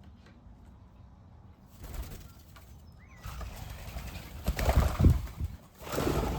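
Bird wings flapping in rough bursts, one about two seconds in, then a longer run from about three seconds on that is loudest around five seconds.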